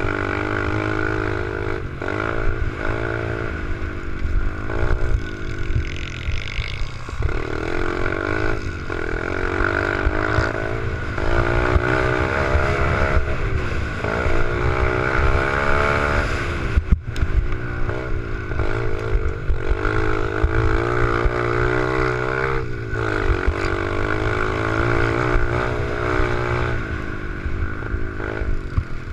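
Small 88cc four-stroke pit bike engine being ridden hard, its pitch climbing again and again through the revs and falling back as the throttle closes or it shifts. The engine note briefly drops out about two-thirds of the way through, then picks up again.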